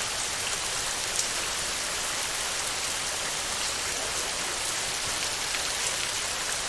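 Heavy rain falling steadily on a tin roof: a dense, even hiss with scattered sharper drop ticks, one louder tick about a second in.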